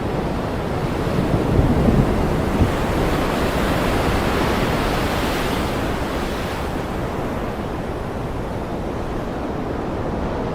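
Ocean surf: a wave swells and washes in over the first few seconds, then recedes, over a steady low rumble of water and wind.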